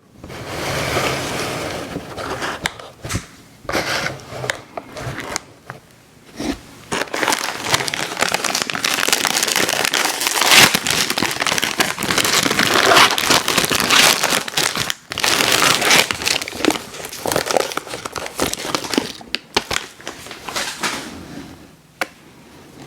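Ice cream sandwich wrapper crinkling and crackling as it is handled and opened, loud and close, with brief pauses.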